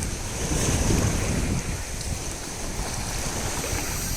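Wind buffeting the microphone over choppy sea water washing and sloshing.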